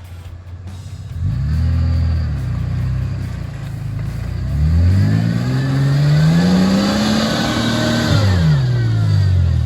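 Four-wheel-drive engine revving hard on a slippery hill climb: a short burst of revs about a second in, then a longer rev that climbs steadily in pitch and drops away near the end.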